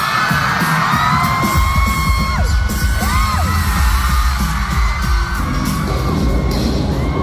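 Audience screaming and cheering in long, high-pitched shrieks over loud pop music with a steady beat.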